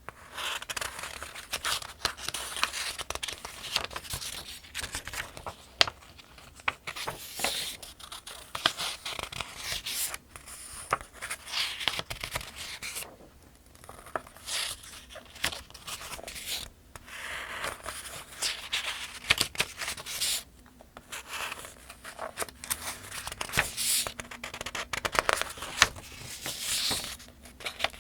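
Paper pages of a softcover almanac being turned one after another, each turn a rustle and swish with crisp crackles of the thin paper, with short pauses between turns.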